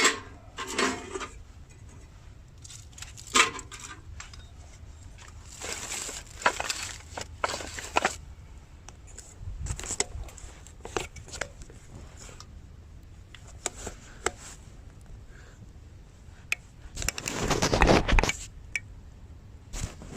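Intermittent clinks, knocks and rustling of gear being handled close by, with a longer, louder stretch of rustling about three-quarters of the way through.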